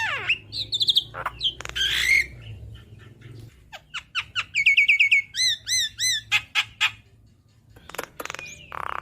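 Javan myna singing a varied, chattering song of whistled notes, sharp clicks and harsh squawks. Around the middle come runs of quickly repeated arched whistles, there is a brief lull about seven seconds in, and a harsh rasping call comes near the end.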